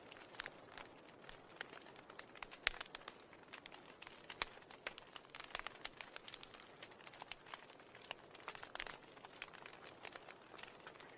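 Wood fire in a fireplace crackling: irregular sharp pops and snaps over a faint steady hiss, with a louder pop about two and a half seconds in.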